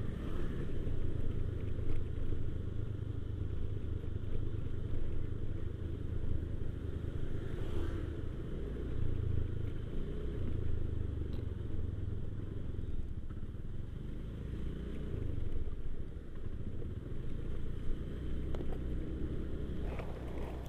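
Motorcycle running at low speed, with a steady low rumble.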